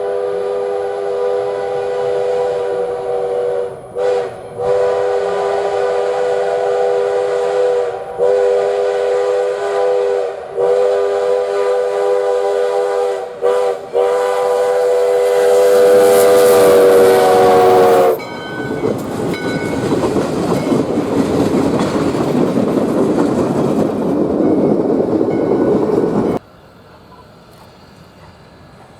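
Steam locomotive #148's chime whistle blowing a long series of blasts, a chord of several steady tones broken by a few short gaps and growing louder as it nears. The whistle stops about 18 seconds in and the train rolls past with a loud rushing rumble of the locomotive and cars, which cuts off suddenly near the end.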